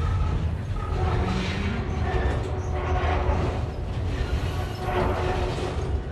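Loaded military flatcars of a freight train rolling slowly past: a steady low rumble of wheels on rail, swelling every second or two as the wheel sets pass, with faint steady high-pitched squealing tones above it.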